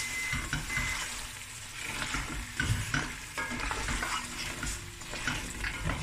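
Beef bones and tomato paste sizzling as they fry in a pot, with a wooden spoon stirring and scraping them around in irregular strokes. The paste is being fried to cook it through before liquid goes in.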